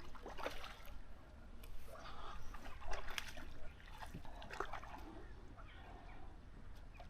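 Faint water splashing and sloshing in short irregular bursts, loudest about three seconds in, then quieter.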